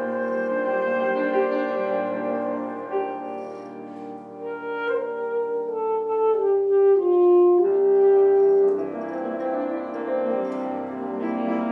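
Saxophone and piano playing a slow classical duo passage. The saxophone's melody steps down to a long held note about eight seconds in, over sustained piano chords.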